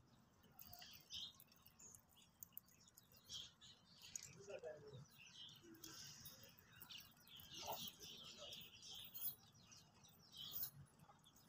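Faint chirping of small birds: many short calls scattered throughout, over quiet background noise.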